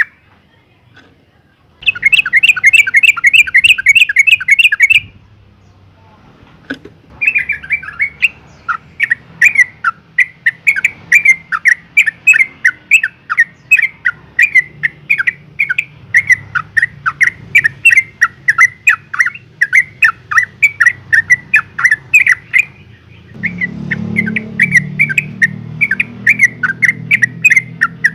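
Female yellow-vented bulbul calling in rapid chattering notes. A dense, fast burst comes about two seconds in, then after a short pause a long run of sharp falling notes at about three a second. This is the female's call to males.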